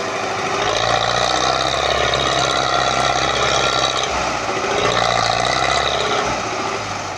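MTZ tractor's diesel engine running steadily, swelling louder twice for a few seconds each time as it works, then fading near the end.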